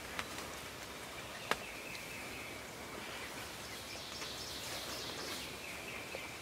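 Outdoor woodland ambience with a high, steady trill lasting about four seconds from a little past two seconds in, and one sharp click about a second and a half in.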